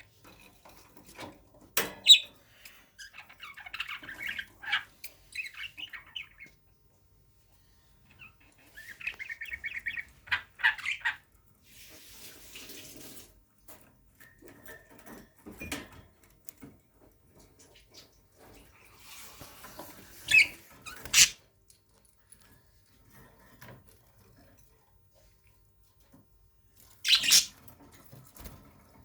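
Pet budgerigar chattering in quick warbling runs, with sharp knocks between the bursts; the knocks are the loudest sounds.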